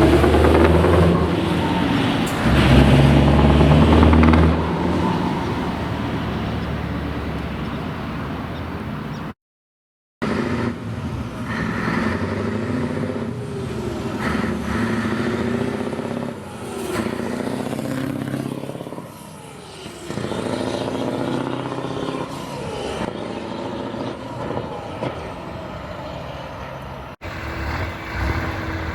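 Scania V8 truck engines with open exhaust pipes running and revving, the pitch rising and falling as the throttle is worked. Loudest in the first few seconds, with a brief total silence about nine seconds in.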